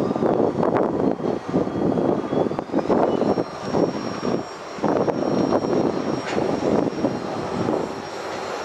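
Freight cars (covered hoppers and tank cars) rolling across a bridge: a continuous rumble of steel wheels on rail with irregular knocks and clanks.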